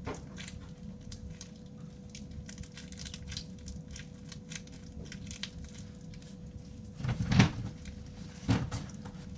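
Crunchy slime with beads being handled and kneaded, giving many small crackling clicks, with two louder handling sounds near the end.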